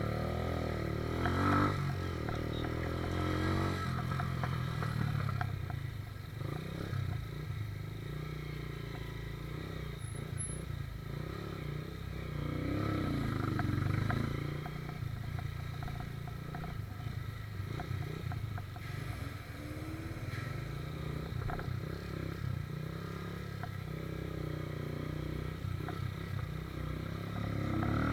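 Motorcycle engine running steadily, its level rising and falling a little.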